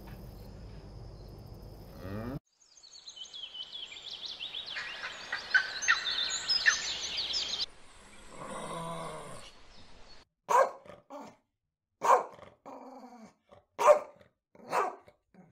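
Dog barking: about four loud, sharp barks a second or so apart near the end. Before them come a few seconds of high, gliding chirping calls and a brief lower call.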